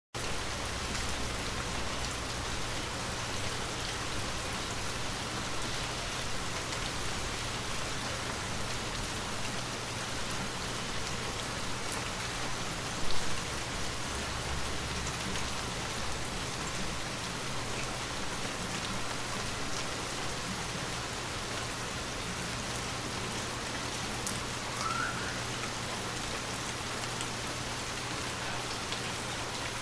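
Steady rain falling and pattering on surfaces, an even hiss with a single brief louder knock about halfway through.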